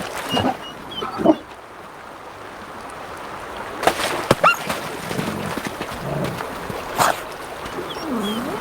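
Grey wolves whining and yelping in short, rising and falling cries, with a few sharp splashes of shallow river water.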